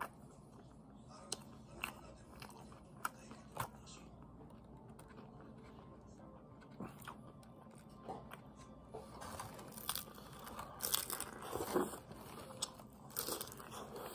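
A person chewing and crunching a crispy fried birria taco. There are a few separate sharp crunches in the first seconds, then louder, denser crunching and biting from about nine seconds in.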